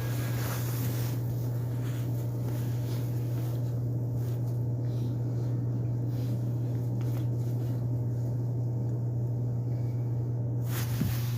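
Steady low hum and faint rumble inside a Seoul subway car, with no change in pitch or level. A brief click and a short rise in hiss come near the end.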